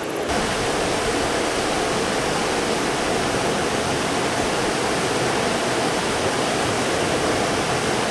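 Stream water rushing steadily, an even roar with no breaks, coming in louder just after the start.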